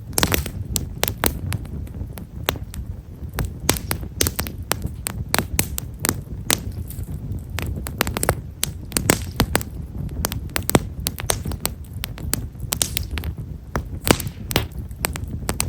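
Japanese stewartia (himeshara) firewood burning, with many small, sharp crackles and pops in quick irregular succession over a steady low rumble.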